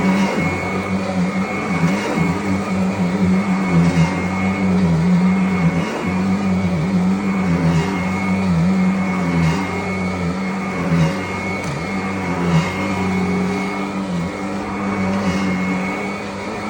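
Vacuum cleaner running steadily: a motor hum that wavers slightly in pitch, with a steady thin whine above it.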